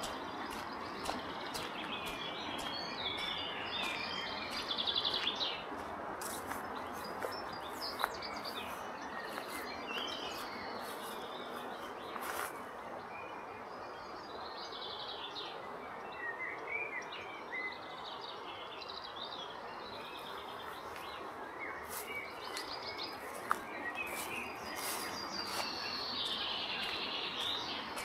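Songbirds singing and calling in short phrases over a steady rushing background noise, with a few isolated sharp clicks.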